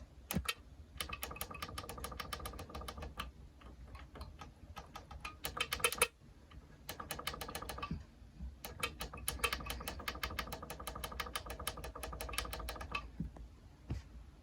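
Rapid mechanical clicking, about ten clicks a second, in several runs of one to three seconds with short pauses between them.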